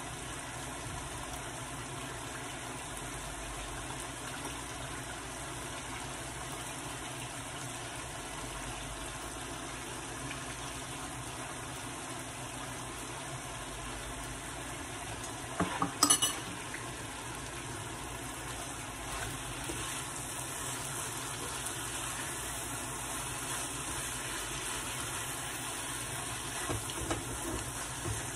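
Chicken fajitas and ripe plantain slices sizzling steadily as they fry in skillets on a gas stove, with a utensil turning the food. About halfway through a utensil clatters sharply against a pan, and a few lighter clinks come near the end as the fajitas are stirred.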